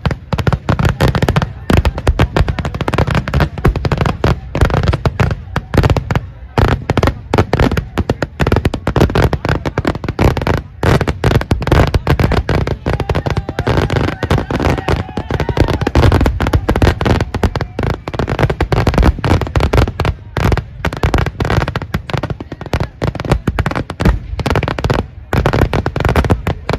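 Kerala vedikettu firecrackers going off in a dense, unbroken barrage, many sharp bangs a second overlapping one another.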